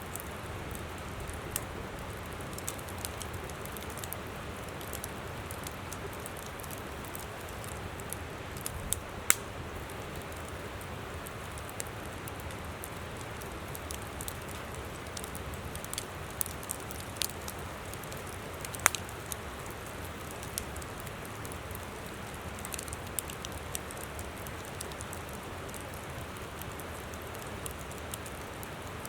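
Campfire crackling with scattered sharp pops, the two loudest about nine and nineteen seconds in, over the steady rush of a flowing river.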